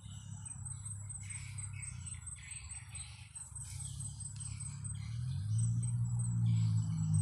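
Wild birds chirping in short, scattered notes over an insect's steady fast pulsing trill, with a low rumble underneath that grows louder in the last couple of seconds.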